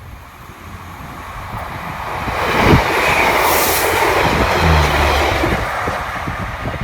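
A train passing on the railway, its noise building from about a second in to its loudest in the middle and easing slightly toward the end.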